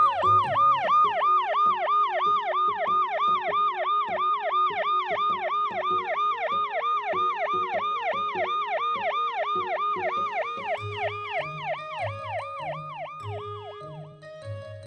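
Police car siren in a fast yelp, about four falling sweeps a second, fading out near the end, over light children's background music.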